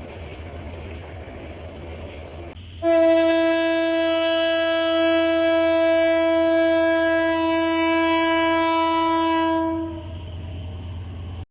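Train running with a steady rumble; about three seconds in, the locomotive's horn sounds and is held as one long, steady blast for about seven seconds before stopping, with the rumble going on underneath and after.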